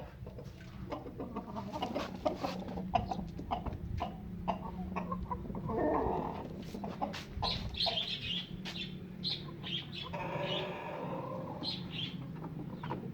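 Domestic hens clucking, in short calls, over a run of sharp clicks and taps.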